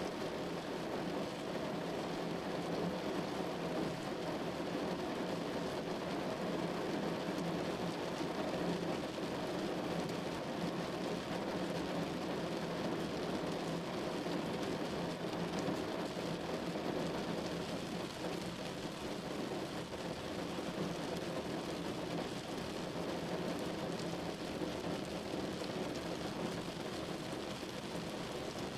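Steady rain falling on a window, an even wash of sound with no separate events.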